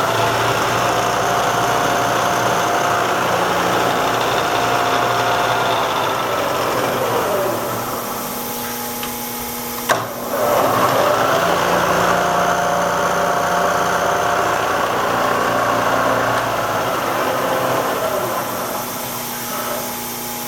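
Bridgeport J-head mill's 2 hp three-phase spindle motor and variable-speed head running at speed with a steady whine, then coasting down with a falling pitch. A sharp click comes about halfway through, and the spindle runs up again, this time in reverse, and coasts down once more near the end.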